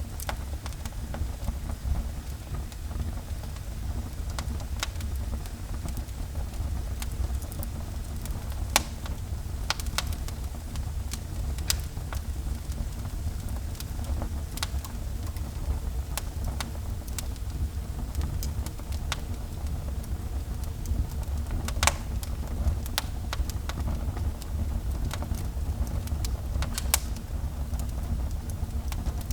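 Wood fire burning in a fireplace: a steady low rumble with sharp crackles and pops scattered irregularly throughout.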